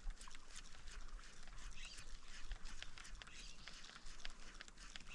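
Faint open-air ambience with scattered light clicks and ticks and a low rumble.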